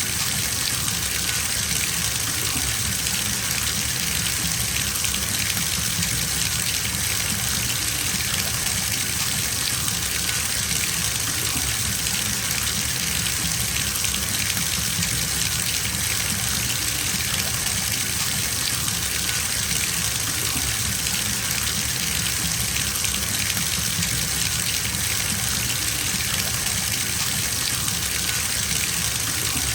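Bathtub filling from a running tap: a steady, even rush of water pouring into the tub, with no change throughout.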